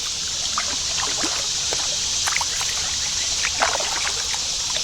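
Kayak being paddled upstream on a creek: a steady rush of moving water with small scattered splashes and drips from the paddle.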